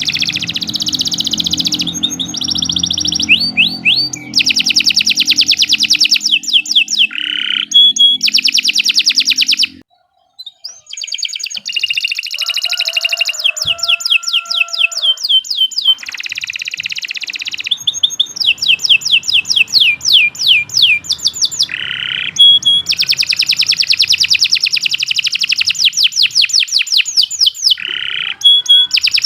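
Domestic canary singing a long song of rapid repeated trills and rolls, the phrases changing every second or two, with a brief break about a third of the way in. A faint low hum sits under the song until that break.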